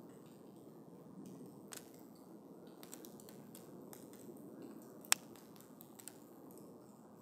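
Wood campfire burning with a steady low hiss and scattered crackles and pops, with one sharp, louder pop about five seconds in.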